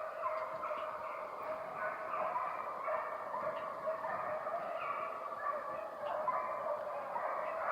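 A pack of deer hounds baying in a continuous overlapping chorus: the cry of dogs running a deer's track.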